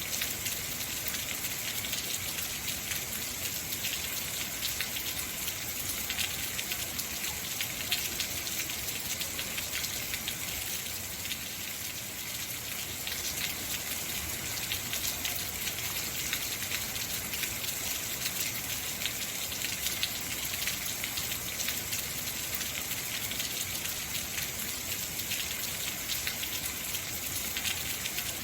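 Heavy rain falling steadily: an even hiss with a dense patter of drops hitting surfaces.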